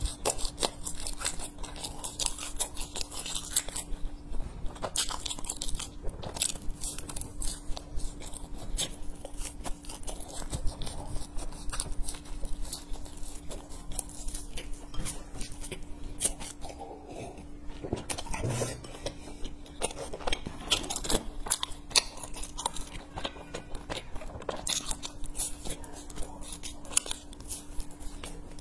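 Close-miked biting and chewing of a crunchy puffed-grain bar: dense, irregular crunching and crackling as bites are taken and chewed.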